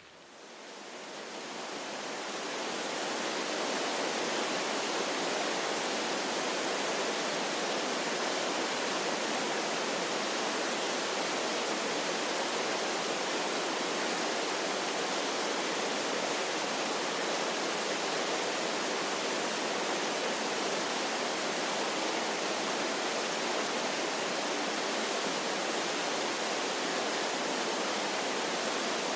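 Waterfall rushing, a steady even roar of falling water with little deep rumble, fading in over the first few seconds and then holding level.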